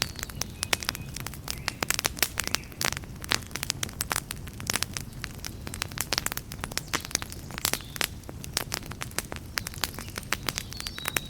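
Campfire crackling: many irregular sharp pops and snaps from burning wood over a steady low rumble of the flames.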